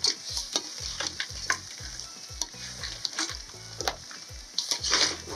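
Raw crabs being stirred into curry masala frying in a metal pot: steady sizzling with repeated clacks and scrapes of the spoon, loudest about five seconds in.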